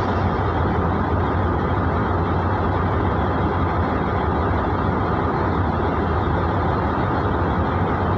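KiHa 200 and KiHa 220 series diesel railcars' engines running with a steady low hum.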